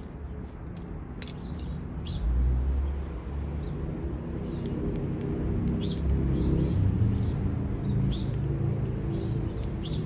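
Small birds chirping in short, scattered high calls, over a low rumble that swells from about two seconds in.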